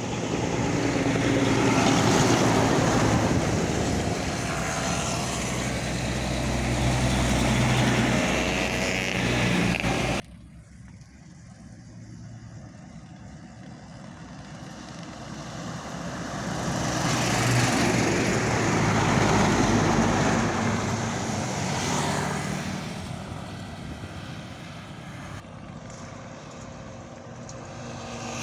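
Fuel tanker truck driving past at speed, its engine and tyre noise swelling and fading. The sound cuts off suddenly about ten seconds in, then a second pass builds up over several seconds and dies away.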